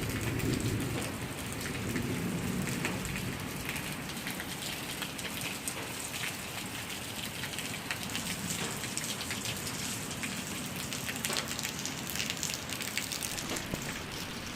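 Steady rain falling, with many separate drops hitting close by. A low rumble sits under it for the first few seconds.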